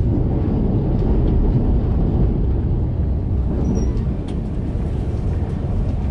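Argo Parahyangan passenger train running at speed, heard from inside the carriage as a steady low rumble with a few faint clicks.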